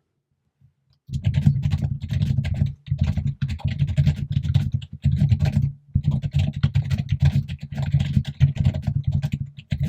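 Fast, continuous typing on a computer keyboard, loud and close, in quick runs of keystrokes with two short breaks, starting about a second in.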